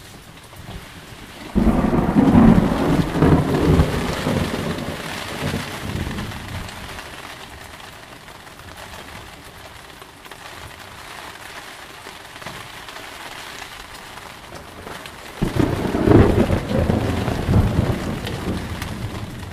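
Steady rain with two rolls of thunder: a sudden loud one about a second and a half in that rumbles away over several seconds, and another near the end.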